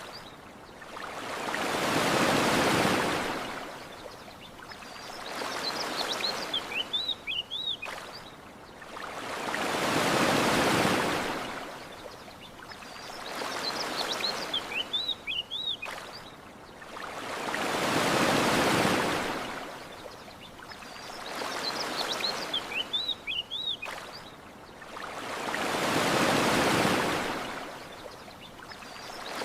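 Gentle ocean waves washing onto a shore, swelling and fading about every four seconds, with a bigger wave every eight. Short bird chirps come in the same cycle, and the whole pattern repeats identically as a loop.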